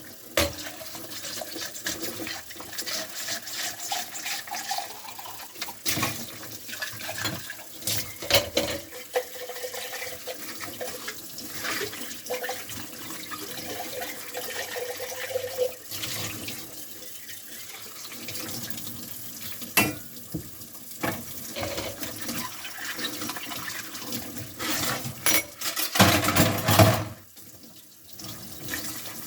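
Kitchen tap running into a sink during hand dishwashing, with frequent clinks and knocks of dishes and cups being handled and rinsed. Near the end the water runs louder for about a second, then drops away briefly.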